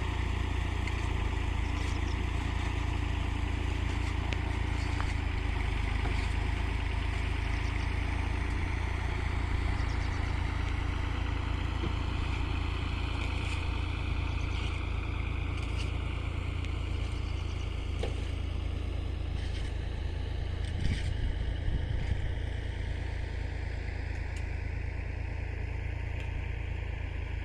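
An engine running steadily for the whole stretch, a constant deep hum under a noisy mechanical hiss, with a few faint knocks.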